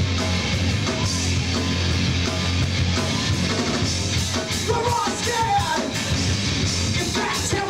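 Live rock band with distorted electric guitars, bass and drums playing a punk-metal song, with a voice shouting or singing over it from about halfway through.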